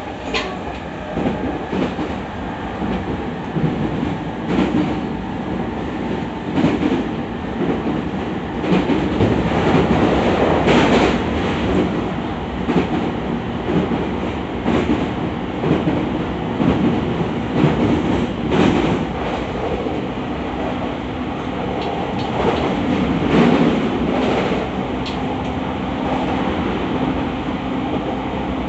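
E217 series electric commuter train at speed, heard inside the passenger car: a dense running rumble with a steady hum, and the wheels knocking irregularly over rail joints, most often in the middle stretch.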